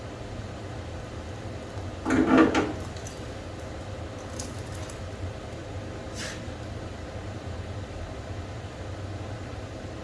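A short, loud clatter about two seconds in, followed by a couple of lighter clicks, over a steady low hum.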